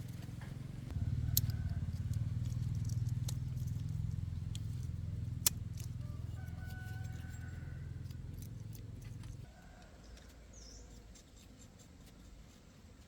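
An engine running with a low steady hum that comes up about a second in and cuts off suddenly about nine and a half seconds in. A few light clicks and bird chirps sound over it.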